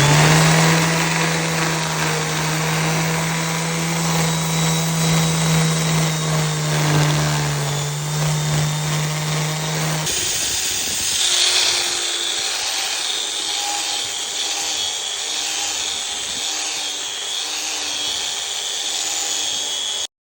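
Power tool with an abrasive brush spinning up and running steadily, its motor humming under the scrubbing of the brush against the wheel's curb-rashed rim. About halfway through the motor hum cuts out suddenly, and a higher, hissing scrubbing noise carries on.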